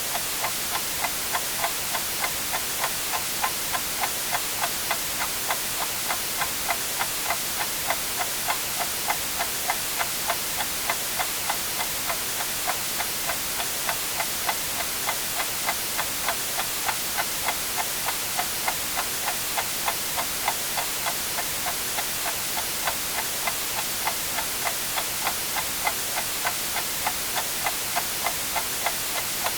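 Clock ticking steadily, about two ticks a second, over a constant hiss of white noise.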